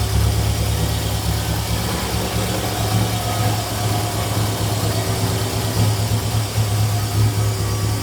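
Volvo 142's four-cylinder engine idling on a newly fitted Speeduino engine controller, with the fuel and ignition timing not yet tuned, so it runs a little unevenly.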